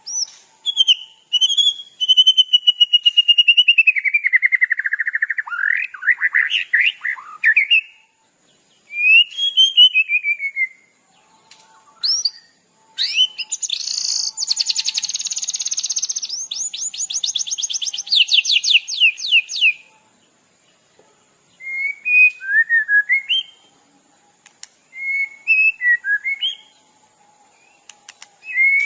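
Songbird singing: long whistled phrases that slide down in pitch, then a fast, rapid trill lasting several seconds around the middle, then short separate chirps near the end.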